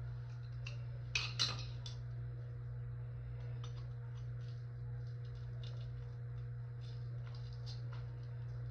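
A steady low hum with scattered light clicks and taps, two sharper clicks coming about a second in.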